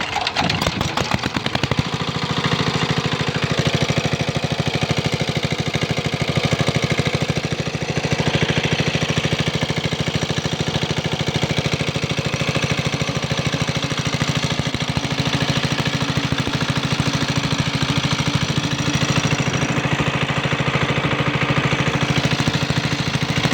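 Diesel engine of a water pump running steadily with a fast, even firing beat, settling into its rhythm about two seconds in.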